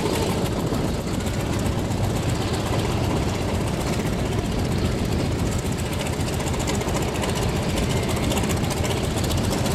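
Douglas DC-3's radial piston engine running at low power, a loud, steady, rapid pulsing with a deep rumble.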